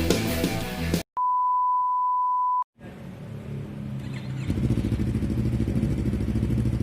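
Music cuts off about a second in, followed by a steady high beep lasting about a second and a half. Then a Yamaha MT-25's 250 cc parallel-twin engine, fitted with an Akrapovic exhaust, runs steadily with an even pulse, getting louder about four and a half seconds in.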